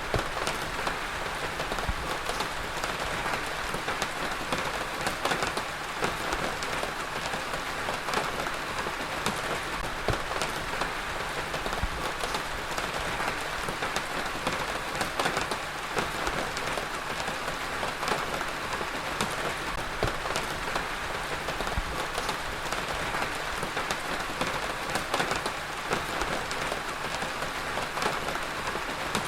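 Heavy rain falling steadily, a dense hiss of drops with many small individual drop hits pattering through it.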